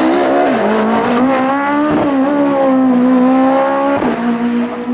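Race car engine at full throttle, its pitch climbing and then dropping sharply at quick gear changes twice.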